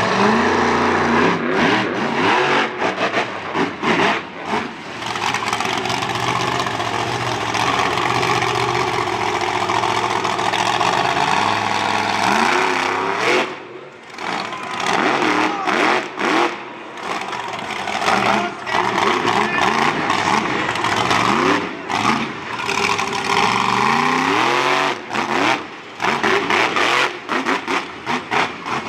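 Monster truck engine revving hard, its pitch climbing and falling again and again as the throttle is opened and cut during a freestyle run.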